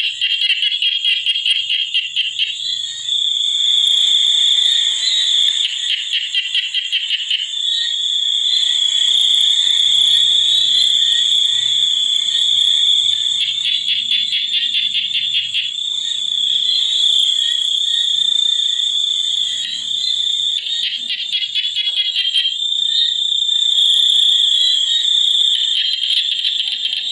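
Chorus of frogs and insects: a continuous high-pitched insect drone, with bouts of rapid pulsing frog calls coming and going over it.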